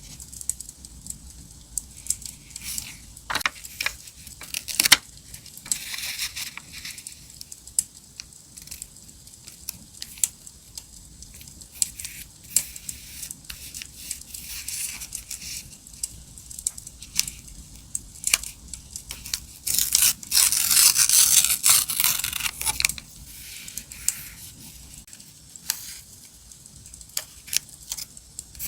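Diary-decorating paper work: paper and stickers handled, torn and cut in quick clicks and rustles, with a longer tearing or rubbing stretch about 20 seconds in. A crackling campfire sound runs faintly underneath.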